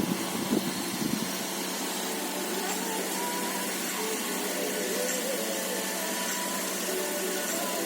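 Steady, even hiss of water running in a small DIY tabletop fountain, with faint voices in the background.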